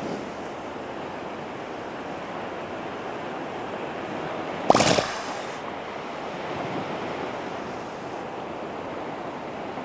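Steady wash of ocean surf, with one brief, loud, sharp sound about halfway through.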